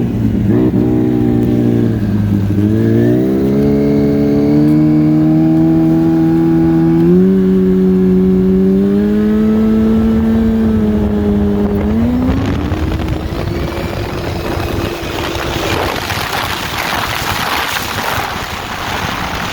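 Turbocharged Yamaha Apex snowmobile's four-cylinder four-stroke engine under hard acceleration, its pitch climbing in several steps over the first twelve seconds. Near the end the engine tone fades under a loud rushing noise.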